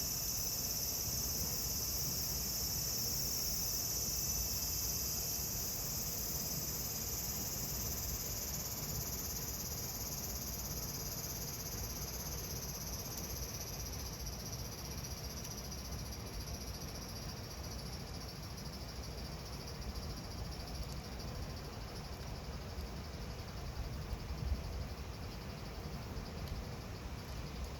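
Cicadas buzzing in a dense high chorus that fades away over the first half, over the low steady rumble and small crackles of a wood fire burning in a pizza oven.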